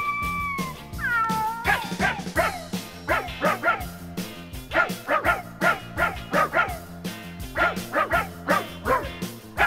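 Background music with a dog barking and yipping over it, many short barks in quick succession.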